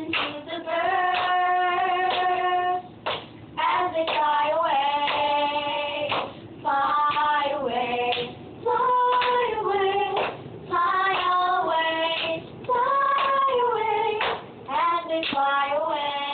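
Children singing a song in phrases, with held notes and short breaks for breath, and no instrument heard.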